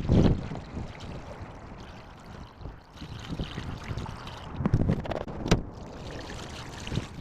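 Wind gusting on the microphone, a low uneven rumble, with a few handling knocks and one sharp click a little after five seconds.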